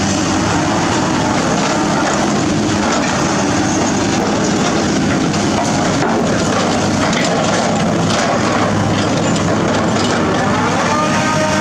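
Heavy diesel construction machinery running steadily under load, with a dense, even mechanical noise.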